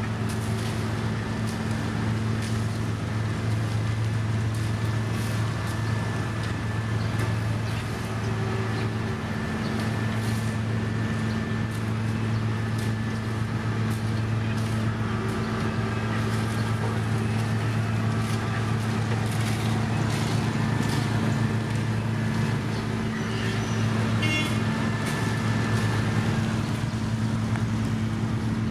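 Diesel engine of heavy road-paving machinery running at a steady speed: a constant low hum with scattered clicks and knocks.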